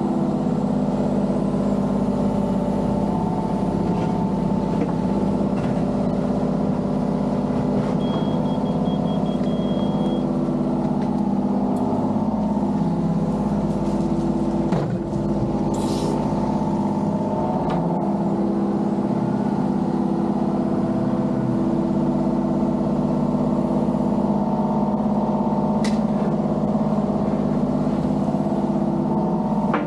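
Mini excavator's diesel engine running steadily at working speed while digging, with a few faint clunks over the steady drone.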